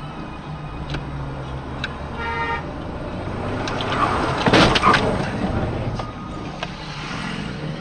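Road traffic with a steady low vehicle rumble, a brief car-horn toot about two seconds in, and a loud burst of noise around the middle.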